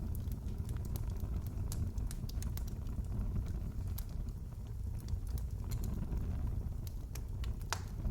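Wood fire in a fireplace crackling: a steady low rumble of the burning with irregular sharp pops and snaps scattered throughout, a louder pop near the end.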